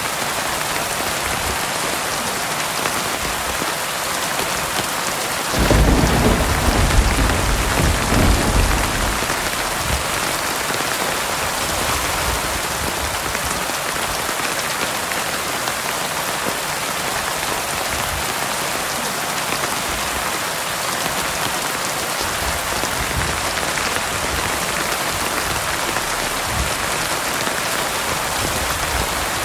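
Heavy rain falling steadily, with one low thunder rumble that breaks suddenly about five seconds in and rolls off over the next four seconds.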